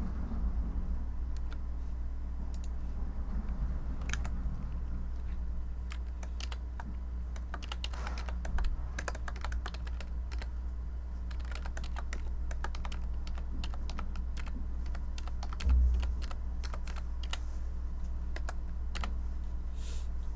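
Typing on a computer keyboard: irregular runs of key clicks with short pauses between them, over a steady low background hum. A low thump sounds about sixteen seconds in.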